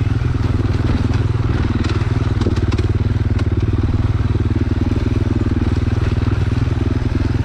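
Dirt bike engine running at a steady note with no revving up or down, with a few light clicks and knocks from the trail.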